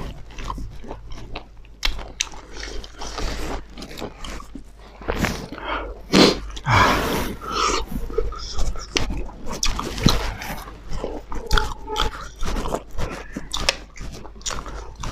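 Close-miked eating sounds from two people chewing and biting fried pork and rice eaten by hand, with many short wet clicks throughout.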